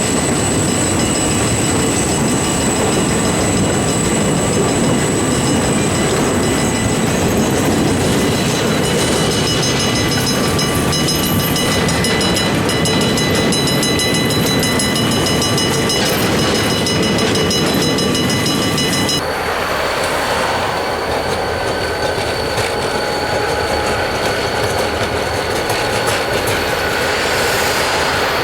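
Freight train cars rolling past with continuous wheel-on-rail rumble and thin, high, steady wheel-squeal tones. The sound changes abruptly about two-thirds of the way through, the low rumble dropping away while higher tones remain.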